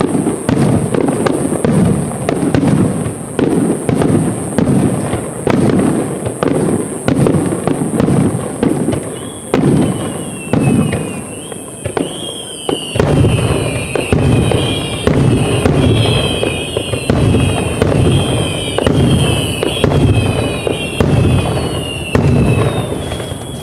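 Aerial fireworks display with shells bursting in rapid succession, a deep boom every second or less. From about ten seconds in, a series of high gliding tones runs over the bursts.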